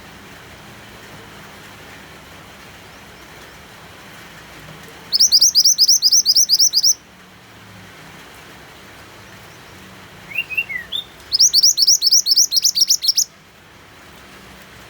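Mantenan songbird singing two fast trills of about ten quick, falling high notes each, one about 5 s in and one about 11 s in, the second led in by a few short chirps. A steady rain hiss runs underneath.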